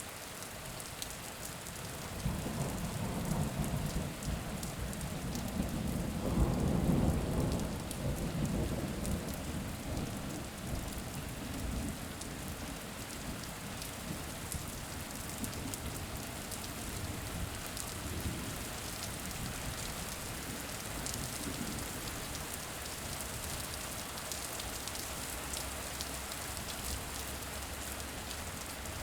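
Steady rain falling, with a long low roll of thunder that swells about two seconds in, is loudest around six to seven seconds, and fades out by about twelve seconds.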